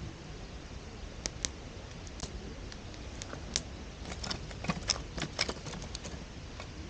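Wood campfire crackling: scattered sharp pops, a few early and a quick cluster about four to five and a half seconds in, over a steady low rumble.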